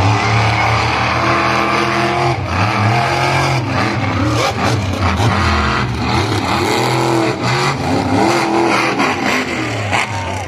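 Monster truck engines revving hard during a race, their pitch repeatedly rising and falling with the throttle.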